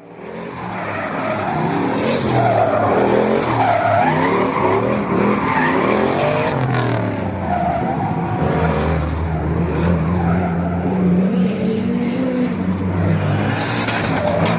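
Drift car engine revving up and down hard while its tyres skid and squeal in a slide, fading in at the start.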